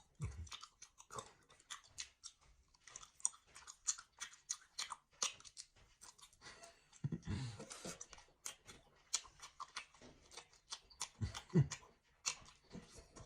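Close-up chewing and crunching of food in the mouth, with many sharp crackling clicks. There is a short low hum about seven seconds in and another near the end.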